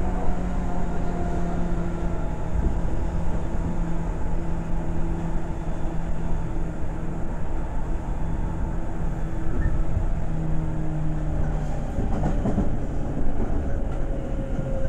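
Seibu 2000 series electric commuter train running between stations, heard from inside the car: a steady rumble of wheels on track with a faint motor hum that dies away about twelve seconds in, followed by a brief clatter over the rails.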